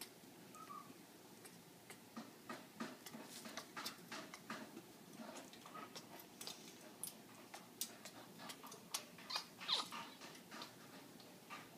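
African grey parrot making courtship sounds: a string of soft, irregular clicks, with a brief chirp about a second in and a louder squeak near the end.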